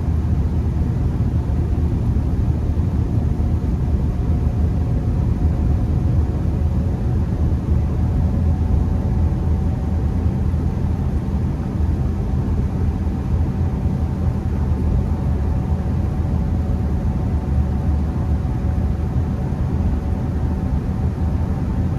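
Steady in-cabin road and engine rumble of a Honda Accord driving at a constant speed, with a faint steady hum above it.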